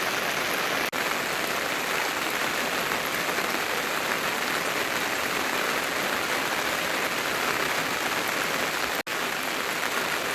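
Heavy rain falling steadily, an even hiss of drops, broken twice by split-second gaps.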